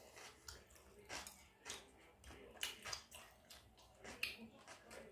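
A person eating, heard faintly: chewing with short, irregular mouth clicks.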